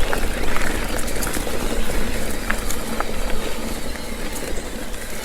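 Mountain bike rolling along a damp dirt trail, heard from a helmet-mounted camera: a steady rush of tyre and wind noise with scattered small ticks and rattles.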